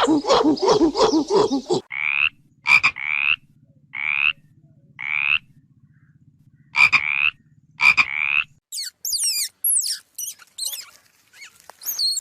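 Frog croaking: a string of short, rising, pulsed calls about once a second. A fast rhythmic run of lower calls comes first, and high sweeping chirps come near the end.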